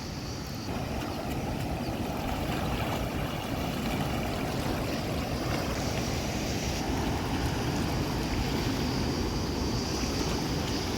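Steady rush of flowing stream water, a little louder from about a second in.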